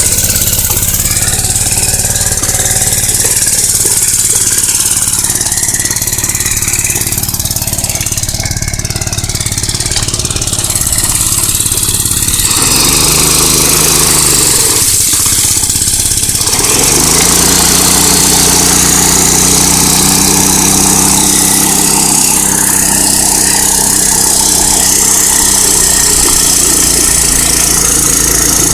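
Mini bike's small engine running low and steady, then revving up about twelve seconds in, dropping back a few seconds later, and revving up again to a held higher pitch for the rest of the run through the mud.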